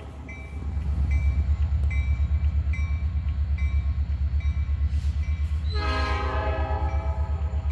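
Diesel freight locomotive running close by with a steady, rapidly pulsing low throb. Its bell rings about twice a second, and a short horn blast sounds about six seconds in.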